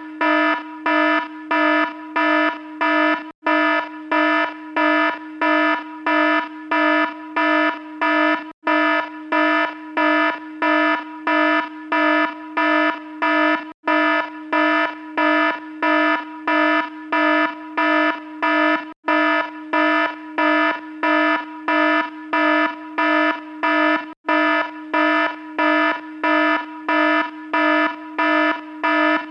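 Electronic alarm sounding a buzzy, low-pitched tone in even pulses, about two a second, with a brief break roughly every five seconds.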